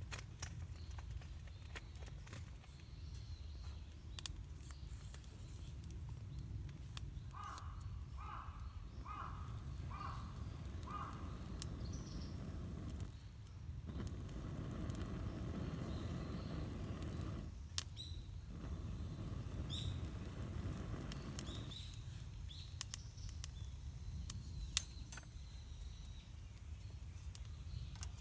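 Outdoor ambience with a steady low rumble and scattered small clicks and knocks; about a quarter of the way in, a bird calls five times in quick, even succession.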